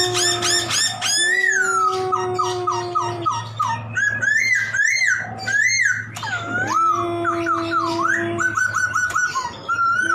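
Poksay (laughingthrush) singing at full tilt: quick whistled notes sliding up and down, runs of short clipped repeated notes, and slurred calls. Under them a long, low, steady whistle-like note comes and goes several times.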